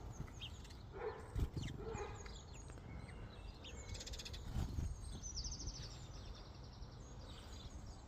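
Wild birds calling at a feeding spot, starlings among them: scattered short chirps and whistles with fast clicking rattles around the middle. A dull thump about a second and a half in.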